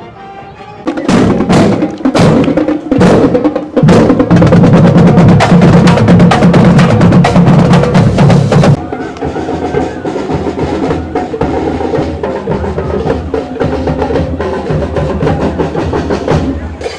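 Marching band drums playing a loud, rhythmic cadence. It grows quieter about nine seconds in and falls away just before the end.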